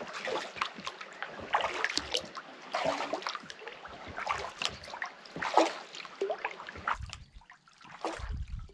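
Kayak paddle strokes in water: irregular small splashes and trickling drips. About seven seconds in the splashing thins out and a low rumble comes in.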